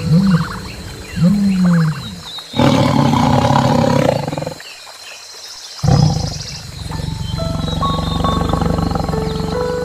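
A large animal calling: two short, low, arching calls, then two long, loud calls with a break of about a second between them, over background music.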